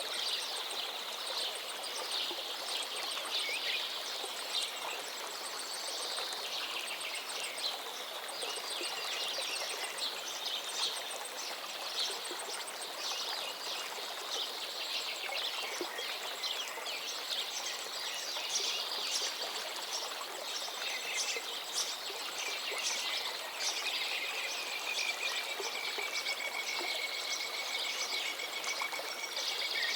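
Songbirds chirping and singing over the steady rush of a river. There are many short calls throughout and one long drawn-out call near the end.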